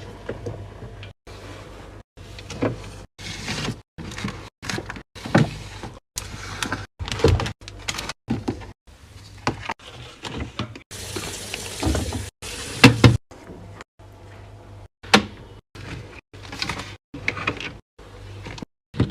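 Fridge restocking handling sounds in quick hard cuts: containers and bottles clunking and sliding onto shelves and into drawers. A short stretch of hiss comes about eleven seconds in.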